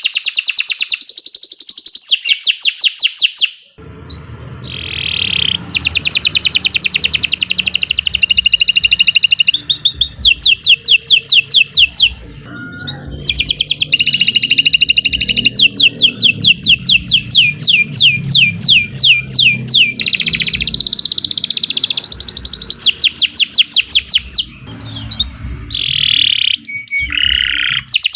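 Domestic canary singing a long, loud song of fast trills and rapidly repeated rolling notes, phrase after phrase with only short breaks between them.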